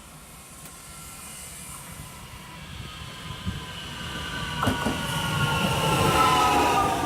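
Train approaching along the line and growing steadily louder. From about three seconds in a high whine falls in pitch as the train comes up, with a sharp click near the five-second mark.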